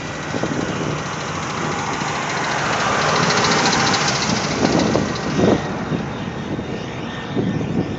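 Road traffic passing on a snow-covered road: vehicle engine and tyre noise swells to a peak a few seconds in, then fades.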